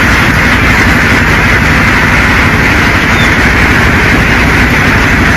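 Truck engine running steadily, a low hum with a dense steady noise over it.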